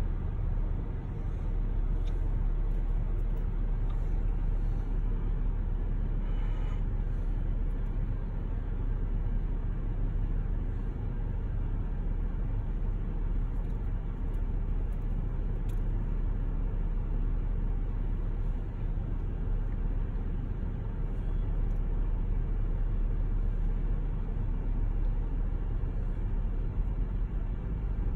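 Steady low rumble of a car's engine and cabin, heard from inside the car as it idles and creeps along in traffic.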